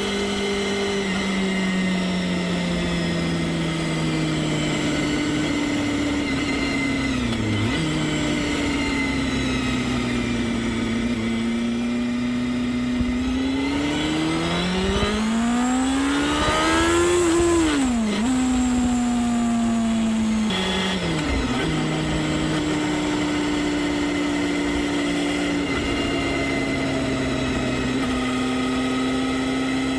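Honda Hornet 250's high-revving 250 cc inline-four engine under way, holding a steady note with short dips about a third of the way in and again past two-thirds. Just before halfway it climbs hard in pitch to a high scream, then drops sharply at a gear change and settles back into a steady cruise.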